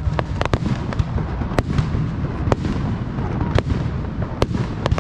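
Aerial fireworks shells bursting in an irregular string of sharp cracks and bangs over a continuous low rumble.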